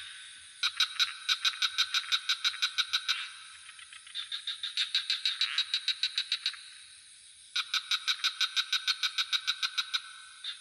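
Frogs calling in rapid pulsed trains, about six or seven pulses a second, in three bouts of about two and a half seconds each, over a steady high-pitched insect drone.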